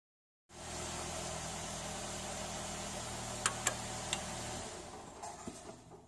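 Car engine idling steadily, stopping about four and a half seconds in. There are a few light clicks shortly before it stops.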